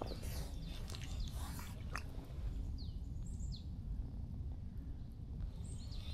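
Outdoor ambience with a steady low rumble, and several short, high bird chirps, some falling in pitch, heard early on and again around three and six seconds in.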